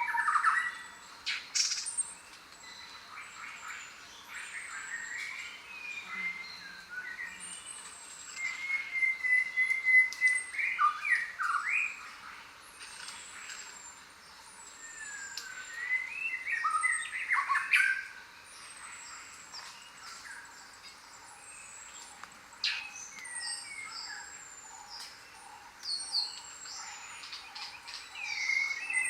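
Several birds calling and chirping together. A thin, high whistle that slides down in pitch repeats every second or two, and louder bouts of busy chattering calls come and go.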